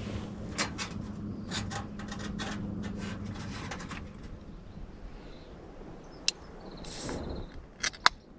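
A low steady hum that fades out about halfway, with scattered rustles and a few sharp clicks, like gear being handled.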